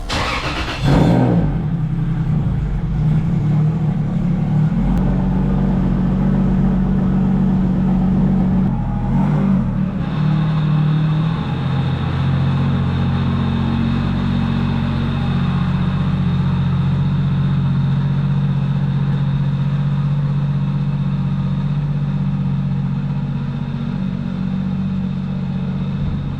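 Car engine running steadily, its pitch shifting near the start and again about ten seconds in.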